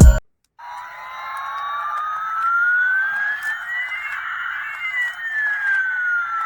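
Electronic toy siren sound: a single slow wail that rises in pitch for about four seconds and then falls, with a hiss beneath it, starting after a brief silence.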